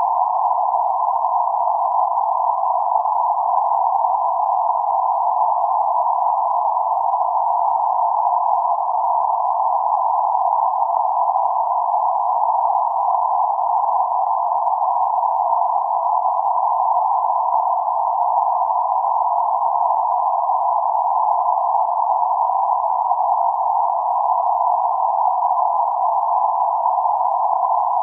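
Steady band-limited noise centred around 848 Hz, a narrow hiss with no other frequencies, unchanging throughout: a synthesized ambient noise track for sleep and focus.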